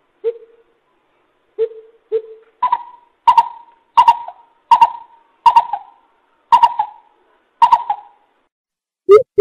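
Greater coucal calling: three separate deep hoots in the first two seconds, then a slower series of seven louder, higher-pitched hoots about one every 0.7 seconds.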